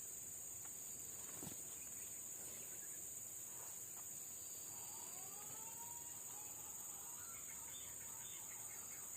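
Outdoor ambience of a steady, high-pitched insect chorus, with a few faint bird calls about halfway through.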